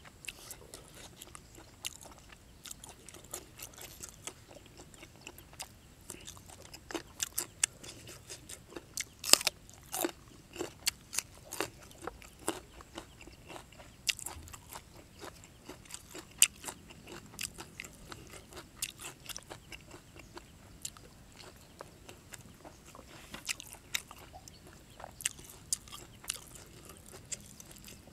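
Close-miked chewing of a mouthful of raw beef with spicy dipping sauce: many sharp, irregular wet clicks and smacks, thickest and loudest in the middle.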